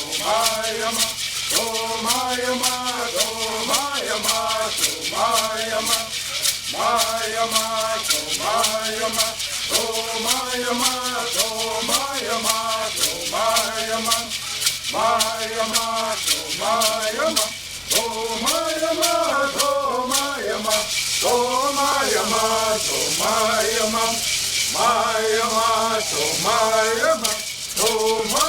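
Bird singing: voices singing a repeated, phrase-by-phrase song in unison over gourd rattles shaken in a steady, quick beat.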